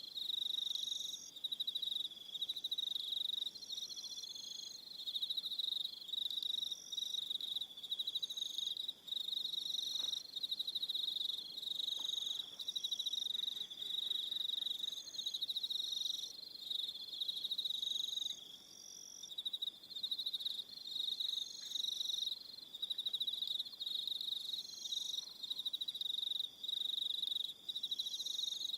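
Evening chorus of crickets: a continuous high, finely pulsed trill, broken into phrases every second or two, with shorter higher chirps from other insects repeating over it.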